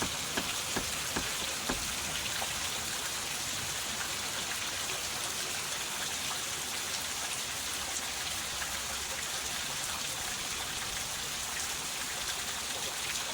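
Heavy rain falling steadily, with a few light knocks in the first two seconds.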